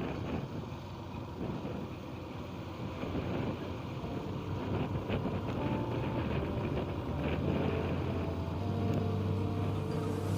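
A vehicle running with wind on the microphone. Background music with held tones fades in over the last few seconds.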